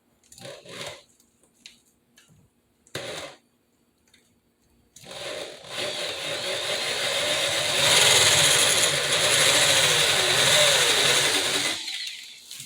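Corded electric drill running for about seven seconds, boring a small pilot hole for a blind bracket screw. It starts about five seconds in, gets louder a few seconds later and stops suddenly near the end, after a few short knocks early on.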